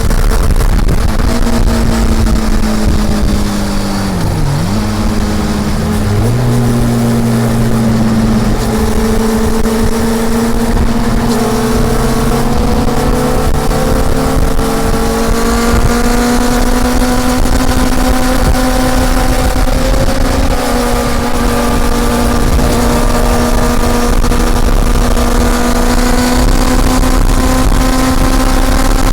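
Honda CB400 Super Four's inline-four engine running under way. About five seconds in its pitch dips sharply and comes back, as at a gear change; after that it settles into a steady drone that slowly rises in pitch, over a low rumble.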